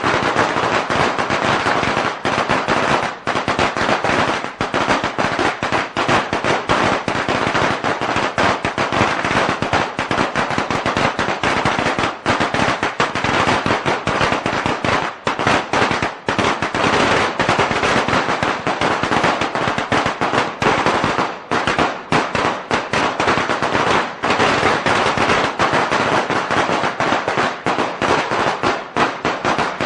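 A long string of Chinese firecrackers going off in a dense, unbroken rattle of sharp cracks, many bangs a second with no pause.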